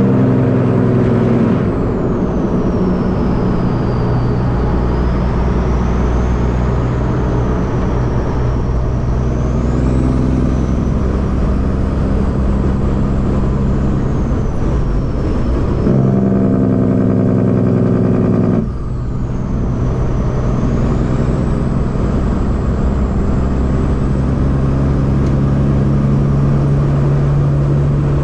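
Peterbilt semi-truck's diesel engine running steadily under way. The engine note changes about 16 seconds in and drops back with a brief dip in loudness near 19 seconds.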